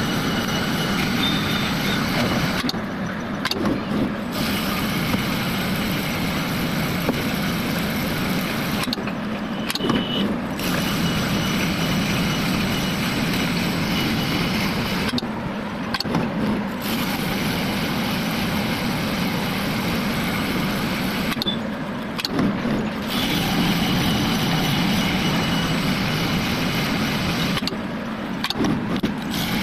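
CNC coil winding machine running steadily with a motor hum and high whir. The whir drops away briefly about every six seconds, five times over, as the machine works through repeated winding cycles.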